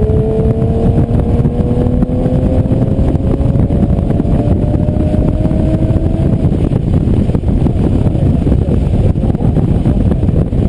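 Aston Martin DBS's V12 engine under hard acceleration, heard from inside the car on track: the engine note climbs steadily for about six seconds, then gives way to a dense, loud rush.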